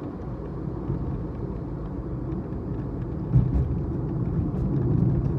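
Cabin road rumble of a moving Maruti Suzuki Baleno, with faint scattered crackling ticks from a door, where the dried-out rubber door beading rubs and scratches. A thump about three and a half seconds in.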